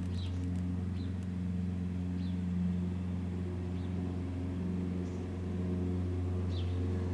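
A steady low mechanical hum, like an engine or motor running, with a few faint, short high chirps over it.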